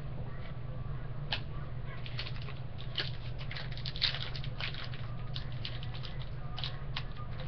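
Trading cards being handled and shuffled by hand, a scatter of light clicks and rustles from the card stock, with a few sharper clicks in the middle.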